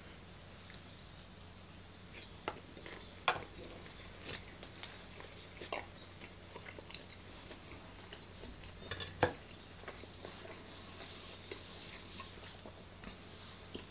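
Close-miked chewing of a mouthful of beef Wellington: soft, irregular mouth clicks and smacks, two of them louder, about three seconds in and about nine seconds in. A faint steady low hum lies underneath.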